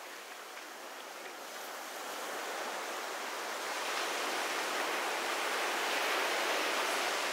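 Ocean surf on a beach: a wave breaking and washing up, its hiss swelling from about two seconds in and loudest near the end.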